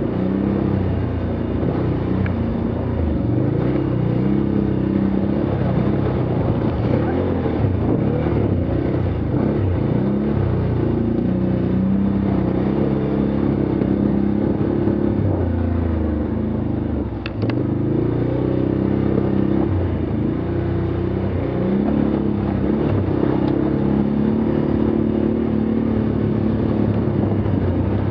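Off-road vehicle's engine running under way, its pitch rising and falling with the throttle, with a brief drop in power about two-thirds of the way through.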